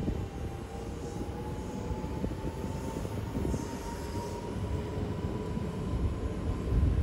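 Yamagata Shinkansen E3-series train pulling away from a station: a low rumble of wheels on rail that grows louder near the end, with a thin whine rising slowly in pitch as it gathers speed.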